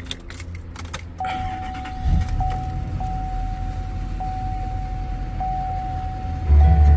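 2016 GMC Sierra Denali pickup engine starting about two seconds in and settling to a low idle, while a steady warning chime sounds in the cab; near the end the engine is revved and the rumble gets much louder.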